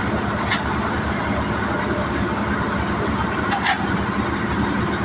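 Al-Ghazi tractor's diesel engine running steadily, with a couple of sharp clicks over it, about half a second in and near the end.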